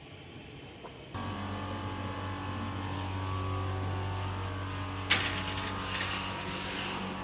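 Handheld fiber laser welding machine: a steady electrical hum starts abruptly about a second in. About five seconds in comes a single sharp snap, followed by uneven crackling.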